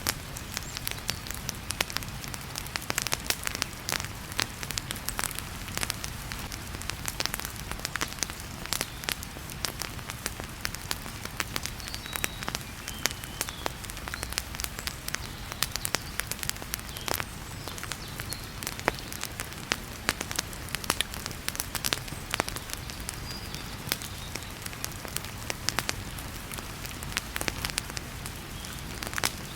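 Wood fire crackling in a fireplace, with frequent sharp, irregular pops, over the steady hiss of heavy rain.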